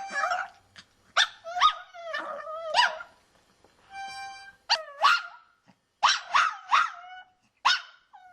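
Dog howling and yelping at a harmonica in a string of short, wavering cries that slide up and down in pitch. Brief harmonica chords sound at the start and again around the middle.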